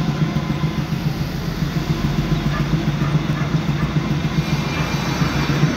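Chevrolet Opala Diplomata engine rumbling at idle, a steady low note with an uneven, lumpy pulse and no revving.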